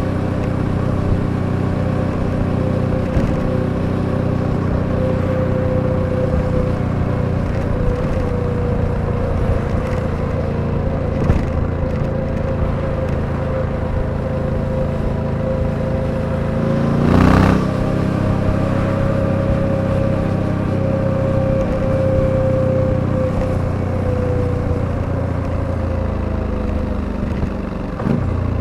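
Suzuki V-Strom 800DE's 776 cc parallel-twin engine running steadily while riding, with wind and road noise. A little past halfway it briefly gets louder with a quick rise in pitch, and near the end the engine pitch drops.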